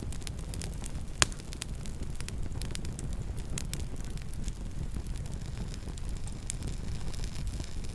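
Campfire crackling: a steady stream of small snaps and ticks over a low rumble, with one loud sharp pop about a second in.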